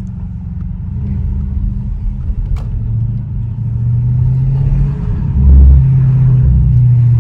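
Straight-piped Audi S7 exhaust rumbling as the car drives. It grows louder in the second half, with the loudest surge a little past halfway.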